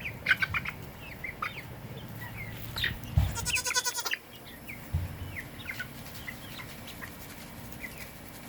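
Backyard chickens clucking and chirping as they peck at treats, with one longer, drawn-out call a little over three seconds in.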